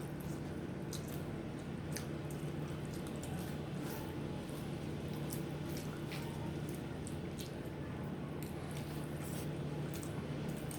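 Wet eating sounds: chewing and squishing of rice and curry, with many small scattered clicks and smacks, over a steady low hum.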